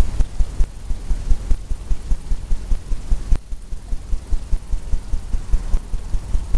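Rapid, irregular low thumps, about five a second, from an oil-paint brush dabbing and scrubbing against the canvas on its easel.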